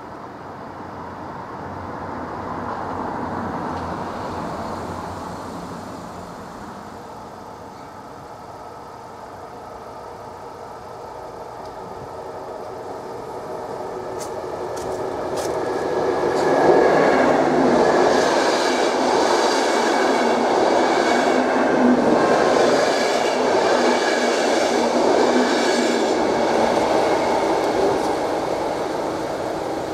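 Passenger train passing over a level crossing: the sound builds from about halfway in, stays loud for roughly ten seconds of wheels running on the rails, then fades.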